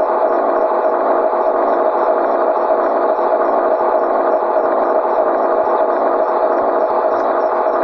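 Scania 113G truck's diesel engine running at a steady speed, loud and even, with a thin sound that lacks any deep rumble.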